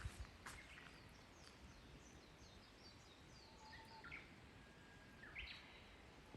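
Quiet outdoor ambience with small birds chirping faintly: a run of short, high, falling chirps, then a few stronger calls about four and five and a half seconds in.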